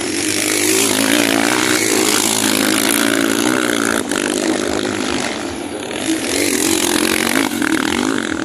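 Small-displacement motocross motorcycles racing, several engines buzzing and revving up and down through the gears.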